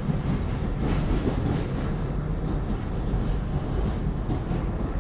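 New York City subway car running along the track, heard from inside the car as a steady rumble, with a few brief high squeaks about four seconds in.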